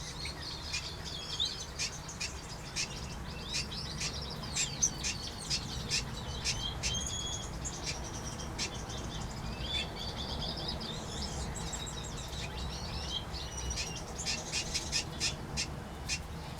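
Mixed aviary finches and waxbills chirping and calling without pause: many short high calls and quick sharp ticks, over a steady low rumble.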